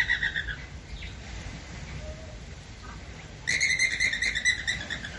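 Flamingos calling: a burst of rapid repeated calls right at the start, then another run of quick repeated calls from about three and a half seconds in.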